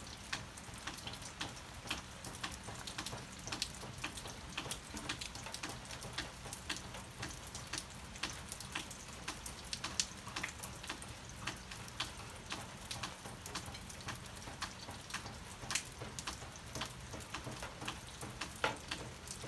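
Steady rain: a soft even hiss with many irregular, sharp drop ticks.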